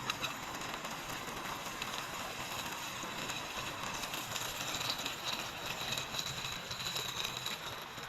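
Fish frying in hot oil in a small camping pot: a steady sizzle with many small crackles.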